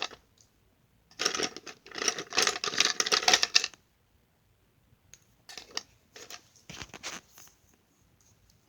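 Colouring strokes scratching back and forth on paper: a dense run of quick strokes from about a second in that lasts some two and a half seconds, then a few shorter runs a couple of seconds later.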